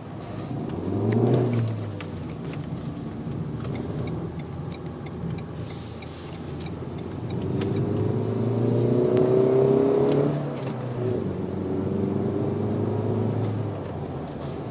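Renault Mégane IV 1.6 dCi diesel heard from inside the cabin in Sport mode, accelerating. The engine note rises with revs, drops at gear changes about two seconds in and about ten seconds in, then pulls again.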